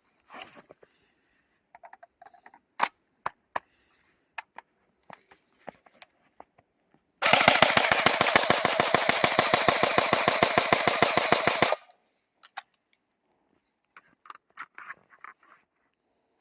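EMG SGR-12 electric airsoft shotgun firing a full-auto burst lasting about four and a half seconds, a fast, even rattle of shots, starting about seven seconds in. Scattered sharp single clicks come before and after it.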